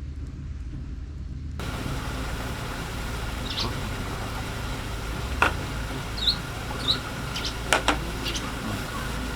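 Garden ambience: a steady low rumble with a few short bird chirps. There are several sharp snaps from the wood fire, one about halfway through and two close together near the end.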